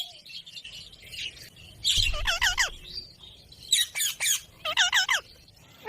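Ringneck parakeet (rose-ringed parakeet) squawking in three quick bursts of short repeated notes, about two, four and five seconds in, with softer chirps between.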